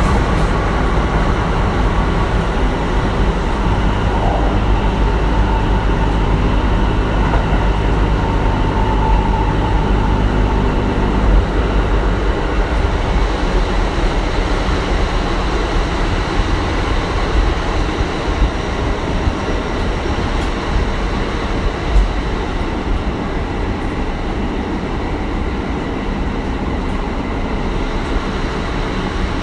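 Kintetsu 1420 series electric train with Mitsubishi GTO-VVVF inverter control running at speed, heard on board: a steady heavy rumble of wheels on rail with faint steady tones above it, and a couple of louder knocks, about a third and three quarters of the way through.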